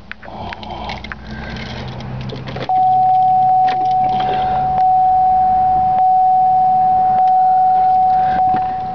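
A 2001 Pontiac Bonneville's 3800 Series II V6 starting up and idling. About three seconds in, a loud, steady, high-pitched tone comes in and holds.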